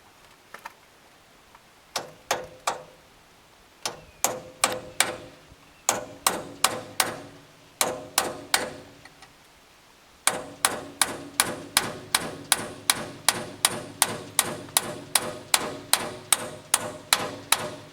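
Hammer blows knocking the aluminum retainer nut around the end of a hydraulic crane cylinder to unscrew it, the nut having just broken loose. Sharp ringing metal strikes come in short groups, then a steady run of about three strikes a second from about ten seconds in.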